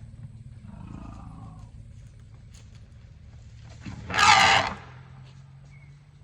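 An elephant trumpets once, loud and brief, about four seconds in, after a fainter, higher animal call about a second in.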